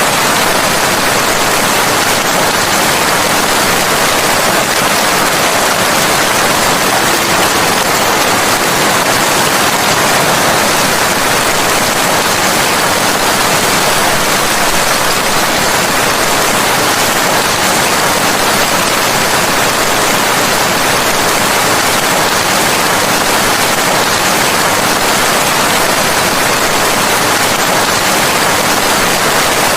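Steady heavy rain with no breaks, a dense even hiss.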